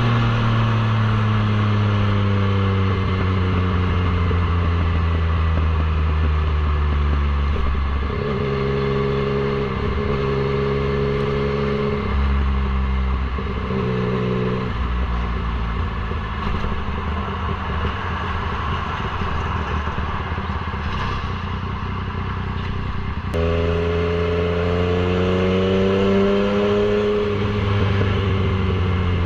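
Yamaha MT-09's three-cylinder engine under way, its note falling and shifting in steps as the bike slows and changes speed. About three quarters of the way through, the engine note jumps up suddenly and then climbs and falls again.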